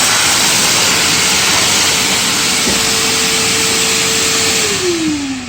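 Eureka Forbes Wet and Dry NXT vacuum cleaner running with its hose on the blower outlet: a loud, steady rush of air with a steady motor hum. Near the end the hum drops in pitch as the motor begins to run down.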